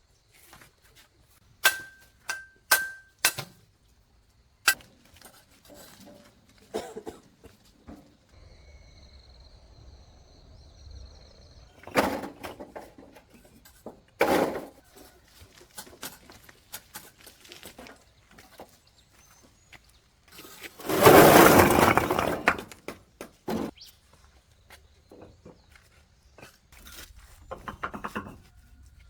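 A run of sharp clinks of hard objects, each with a brief ring, then scattered knocks and scraping, the loudest a longer rough scrape about twenty seconds in.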